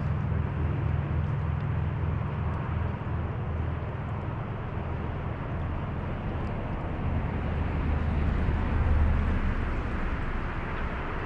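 Steady outdoor background noise: a low rumble under an even hiss, swelling slightly near the end.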